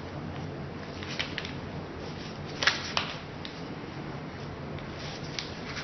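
A sheet of paper being handled and folded: a few short crinkles and taps, the two sharpest about two and a half and three seconds in, over a steady low background hum.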